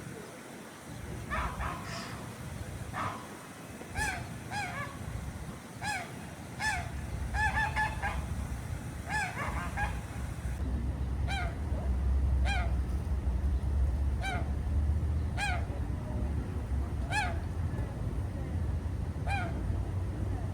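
Waterfowl at a pond calling repeatedly, single honking calls roughly once a second, with a low steady rumble growing underneath partway through.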